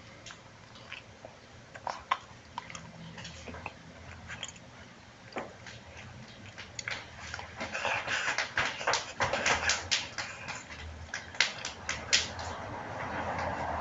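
Close-up mouth sounds of a person chewing a mouthful of five very hot Plutonita chewing gums: wet smacking clicks that come thicker after about eight seconds, with whimpering, huffing breaths as the gum burns his mouth.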